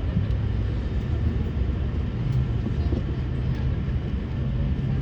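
Cabin noise of an Airbus A350 after landing: a steady low rumble with the hum of its Rolls-Royce Trent XWB engines running at low power, the hum rising a little in pitch near the end.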